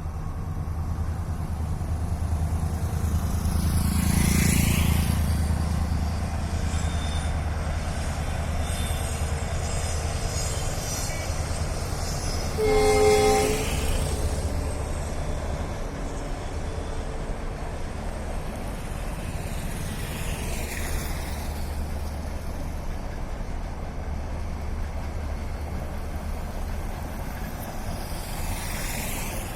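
Amritsar–Kochuveli Superfast Express running on the track, a steady low rumble of wheels and carriages. The locomotive horn sounds once, for about a second and a half, around the middle.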